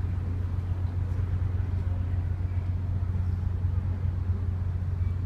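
Ferry's engines running with a steady low drone, heard on board.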